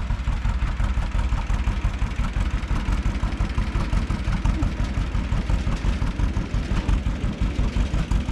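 Tractor engine running steadily under way, with a rapid, even pulsing exhaust beat.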